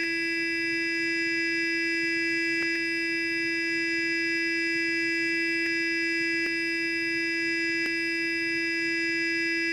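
Sonic electric toothbrush motor buzzing, a steady hum with a fixed pitch, with faint ticks every couple of seconds.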